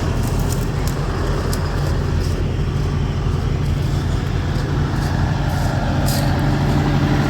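Tractor engine running steadily at a constant speed, with a few faint clicks over it.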